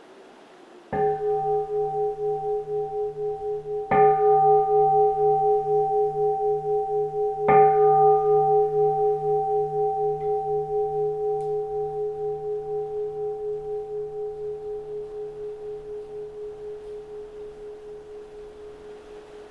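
Keisu, a Japanese Buddhist bowl bell, struck three times about three seconds apart, each stroke adding to a long, slowly fading ring with a steady wavering pulse.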